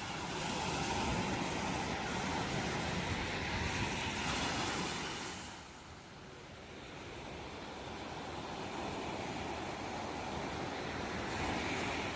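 Ocean surf: one wave breaks and washes for about five seconds, falls away, then the next swell builds toward the end.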